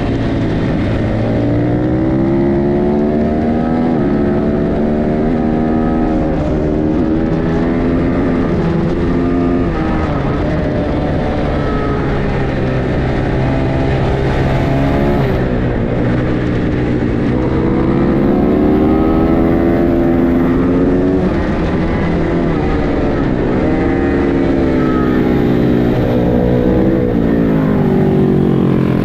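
Racing motorcycle engine under hard acceleration and braking, its pitch climbing through each gear and dropping at the shifts and into corners, over and over, with wind noise throughout.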